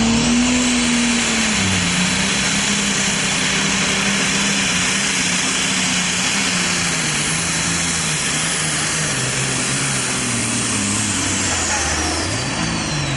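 Diesel super stock pulling tractor at full power, hooked to the sled. Its engine note sinks slowly as it lugs against the building load, with a loud hiss and a high turbo whistle over it. Near the end the engine pitch flicks up briefly and the whistle falls away as power comes off.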